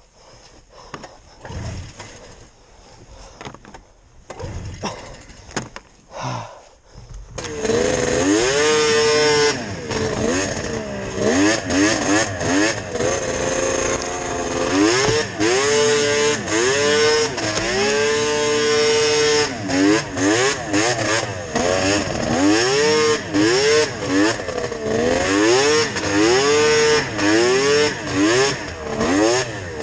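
Yamaha VMax 700 triple two-stroke snowmobile engine on Hauck expansion pipes, quiet and distant at first. After about seven seconds it comes in loud and revs hard, its pitch rising and dropping again and again as the throttle is worked.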